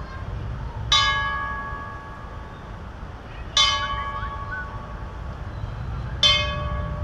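A memorial bell tolled slowly, struck three times about two and a half seconds apart, each strike ringing and fading before the next. It is one of a series of 54 tolls, one for each Nevada service member killed in combat. A low rumble runs underneath.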